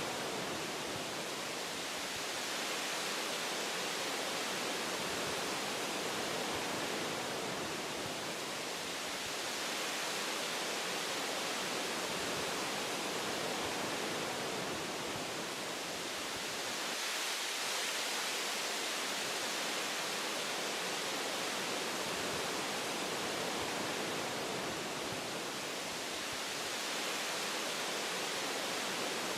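Wind rushing through forest tree branches, a steady hiss that swells and eases gently every few seconds.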